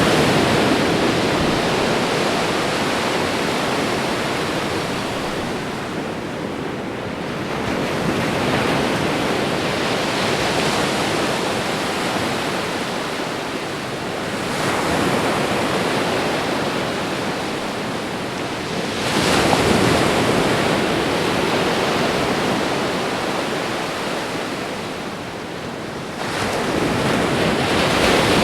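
Ocean waves breaking on a shore: a continuous rushing surf that swells with each new wave roughly every five seconds and eases back between them.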